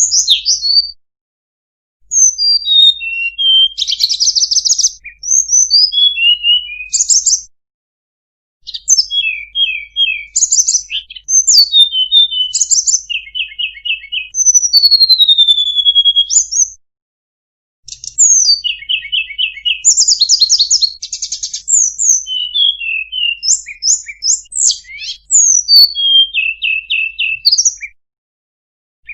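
A tledekan gunung songbird singing a rapid, varied, high-pitched song of chirps, fast trills and sliding whistles, in long bouts broken by short silences about a second, eight, seventeen and twenty-eight seconds in.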